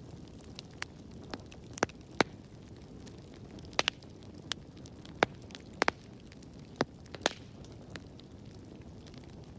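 Wood fire burning in a fireplace: a steady low rumble of flames with sharp, irregular crackles and pops, about a dozen of them, the loudest about two and five seconds in.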